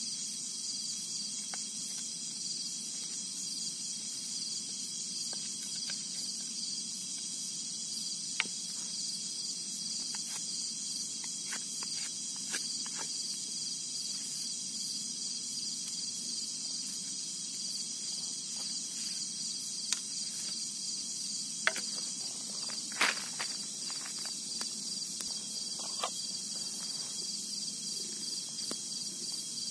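Insect chorus trilling steadily in several high-pitched bands, with scattered sharp clicks and knocks; the loudest is a double knock about three quarters of the way through.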